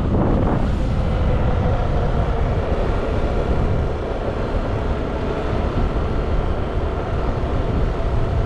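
Motorbike engine running at a steady speed while riding, with wind buffeting the microphone.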